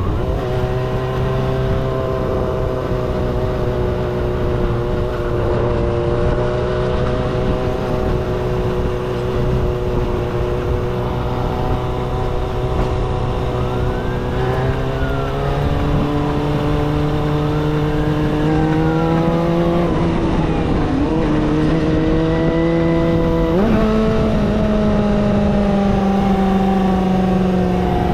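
Kawasaki ZXR250's inline-four engine running at steady revs under way, its pitch holding almost constant and stepping up a little about halfway through, then sharply about three quarters of the way in.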